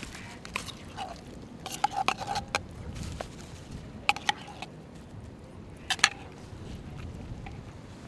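Cat food clinking against a dish in scattered short, ringing clinks, a cluster about two seconds in and two more about four and six seconds in.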